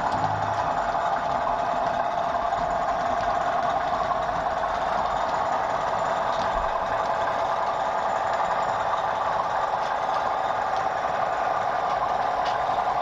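OO gauge model train running on the layout: a steady mechanical running noise from the locomotive and wheels on the track, with a few faint clicks.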